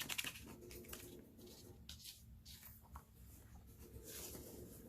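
Faint handling noise: a few light clicks and taps, with soft rustling, as the plastic contents of a miniatures kit box are picked up and moved about.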